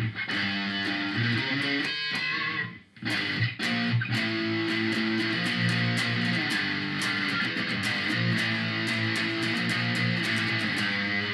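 Electric guitar played with distortion through a Korg A5 multi-effects unit's overdrive, set with the effect level at maximum and the distortion at 10. The chords ring on continuously, with a short break about three seconds in.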